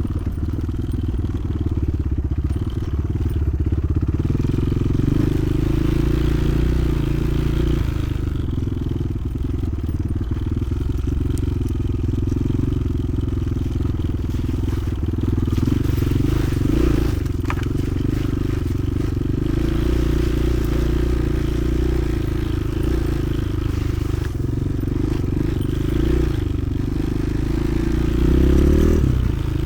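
Motoland XR 300 Lite enduro motorcycle's engine running steadily while riding, its note shifting with the throttle and rising near the end.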